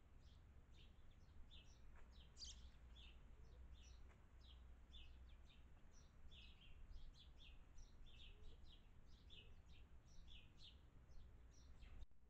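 Small birds chirping: a quick, continuous run of short, high chirps, several a second, fairly faint over a low hum.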